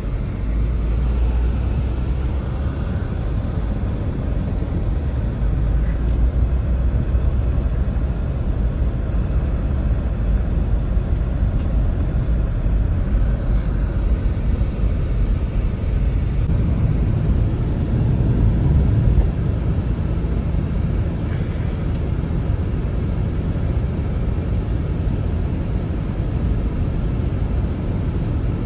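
Blizzard wind blowing as a steady deep rumble.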